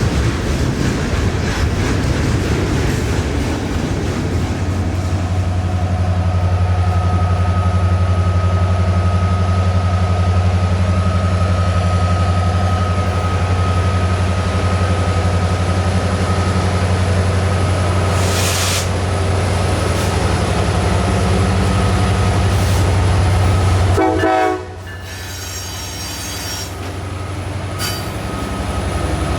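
Diesel freight train locomotive running past with a loud, steady low engine drone and the rumble of the train on the rails. About 24 seconds in the sound drops abruptly, then builds back up.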